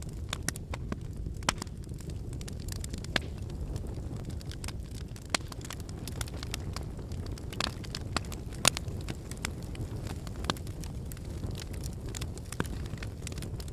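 Wood bonfire burning: a steady low rush of flame with frequent sharp crackles and pops from the burning firewood, the loudest pop about nine seconds in.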